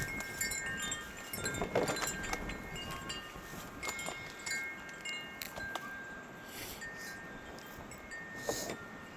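Wind chimes ringing in the breeze, several clear notes sounding and fading in turn, with a few soft knocks in between.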